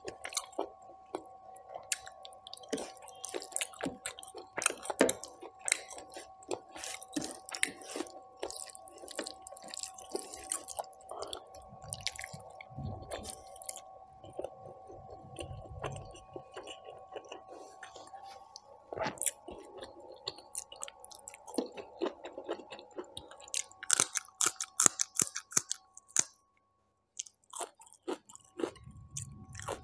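Close-miked mouth sounds of a person eating mutton curry and rice by hand: chewing and biting with many small clicks and crackles, denser and louder a little before the end. A faint steady hum lies underneath.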